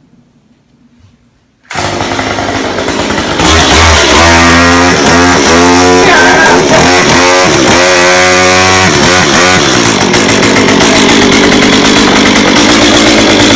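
Two-stroke chainsaw started up and revved hard, very loud and close. Its engine pitch rises and falls repeatedly with the throttle, then holds at high revs.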